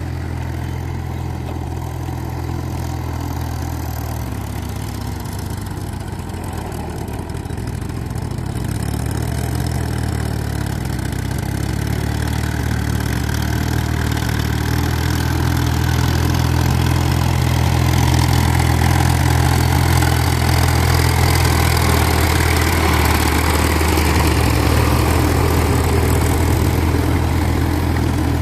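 Powertrac Euro 50 tractor's diesel engine running steadily while working a cultivator, getting louder from about a third of the way in and staying loud.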